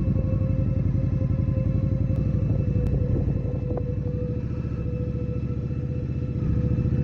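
Indian Scout motorcycle's V-twin engine running steadily, a fast low pulsing with a steady higher tone over it.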